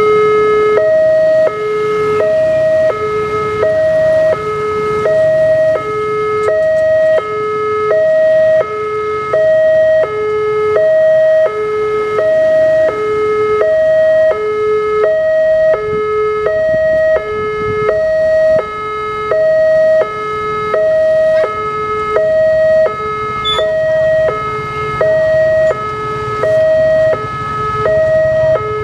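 Level-crossing warning alarm at an Indonesian railway crossing, sounding an electronic two-note signal that alternates steadily between a lower and a higher tone, about one pair a second, to warn that a train is approaching.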